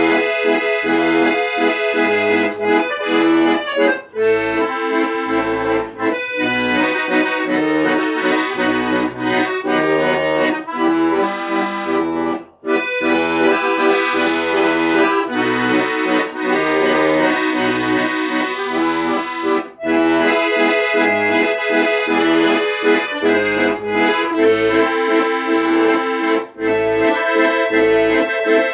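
Instrumental music led by accordion, playing sustained chords over a pulsing bass.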